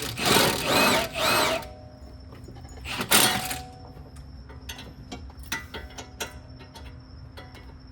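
Milwaukee cordless impact wrench run in three short bursts, its pitch rising and falling in each, then one more burst about three seconds in, followed by light clicks of tools.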